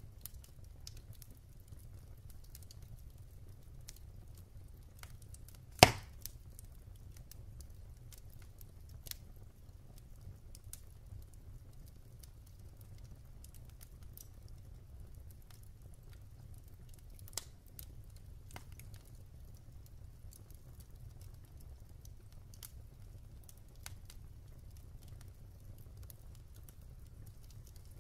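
Wood fire in a fireplace crackling, with scattered small pops over a low steady rumble and one loud crack about six seconds in.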